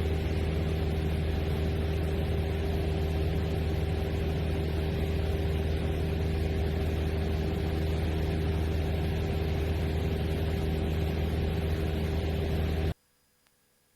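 Cessna 172's engine and propeller running steadily at climb power, heard inside the cabin as a loud, even hum with several held low tones. The sound cuts in suddenly and cuts off just as suddenly about 13 seconds in.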